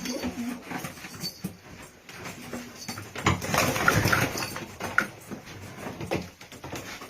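Domestic kash pigeons cooing low, with a louder scuffling, clattering burst from about three to four and a half seconds in.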